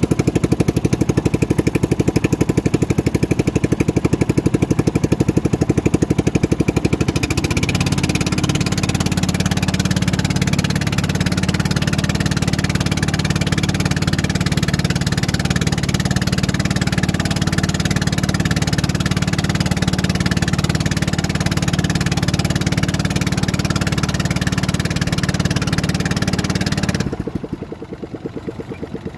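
An engine running steadily, its note shifting and growing stronger about seven seconds in, then dropping away sharply near the end as if throttled back.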